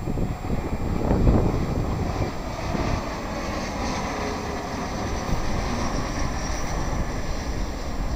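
Jet airliner engines rumbling, loudest about a second in, with a faint high whine through the middle and wind buffeting the microphone.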